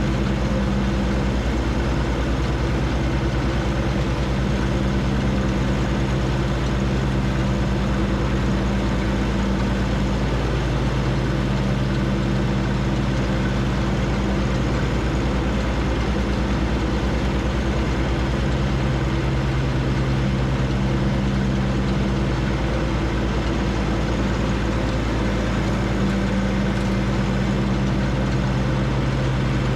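John Deere 1025R compact tractor's three-cylinder diesel engine running steadily, with small shifts in its note.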